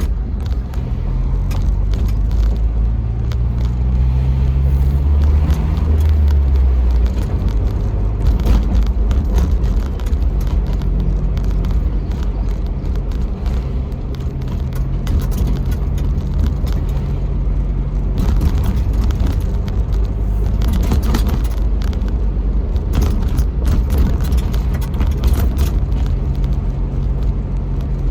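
1999 Jeep Wrangler TJ driving: the engine rises in pitch as it accelerates a few seconds in, then holds steady while cruising, with road noise. No knocking comes from the rear suspension, now that the rear lower control arm bolt is in place.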